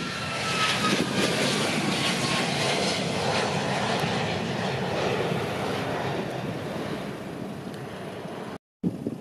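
Airliner passing close: a rush of engine noise with a faint whine falling in pitch, loudest in the first few seconds and then fading away. The sound cuts off abruptly near the end.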